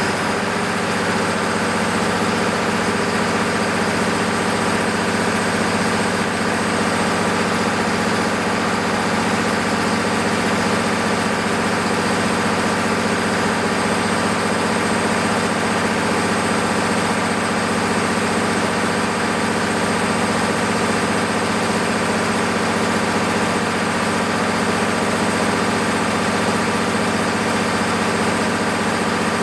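MEP-006A military generator's six-cylinder diesel engine running at a steady, unchanging speed during a load test after a full overhaul.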